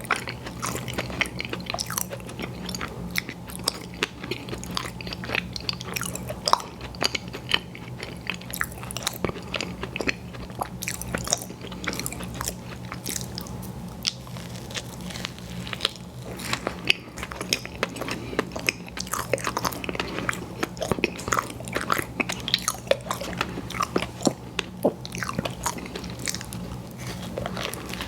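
Close-miked eating of a dessert pie: repeated crisp crunching bites and wet chewing, with many irregular sharp crunches, over a steady low hum.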